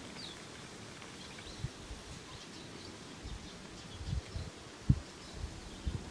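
Faint outdoor ambience with scattered small bird chirps, broken by a few short low thumps, the loudest about five seconds in.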